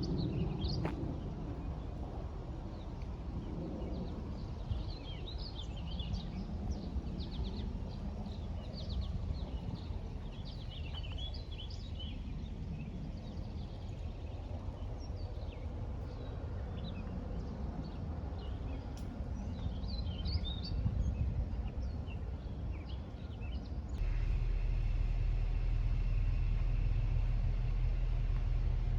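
Small songbirds chirping and twittering in many short calls over a steady low outdoor rumble. About 24 s in, the sound switches abruptly to a louder steady low hum.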